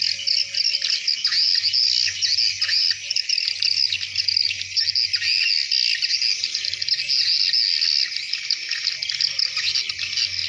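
Many swiftlets twittering together in a dense, continuous mass of rapid high-pitched chirps, with no break.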